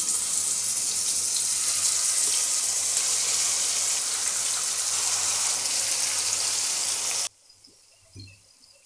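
Marinated chicken pieces sizzling in hot oil in a pan, a steady loud hiss that cuts off suddenly about seven seconds in.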